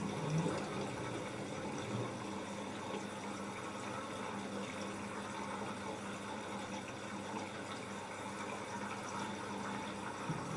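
LG F10A8HDS5 front-loading washing machine mid-cycle: a steady sound of water running through the machine, with a low steady hum underneath.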